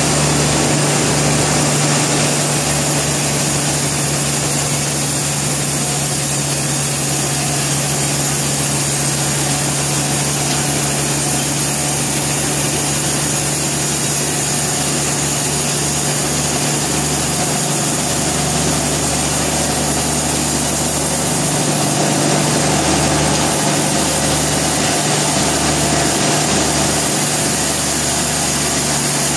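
Sawmill machinery running steadily with a constant engine-like hum under an even mechanical noise.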